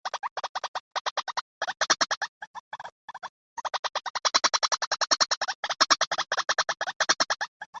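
White-breasted waterhen calls played as a bird lure: fast runs of short, repeated notes, about ten a second, broken by brief gaps. The calls start suddenly after silence.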